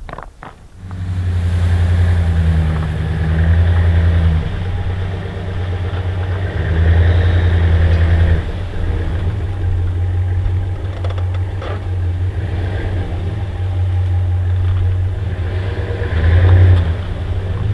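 A vehicle engine starts about a second in and runs steadily, swelling a few times as if briefly revved.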